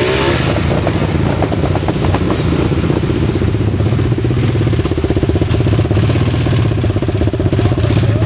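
A vehicle engine running steadily at an even speed, with a rapid regular pulsing.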